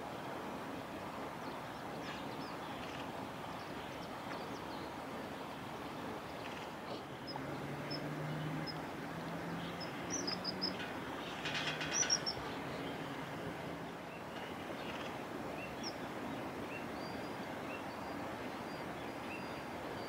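Short, high bird chirps scattered through the middle and later part, over a steady rushing background. A low hum comes and goes about a third of the way in.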